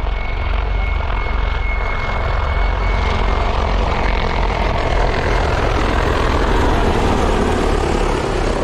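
Military helicopter flying close by: a steady low rotor beat under loud engine noise, with a thin high whine that fades about three seconds in. The noise grows louder in the second half.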